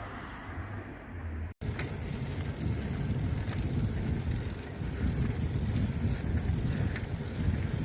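Wind rumbling on the microphone with steady noise from a moving bicycle ride, starting abruptly after a brief dropout about a second and a half in; before that, the quiet tail of fading background music.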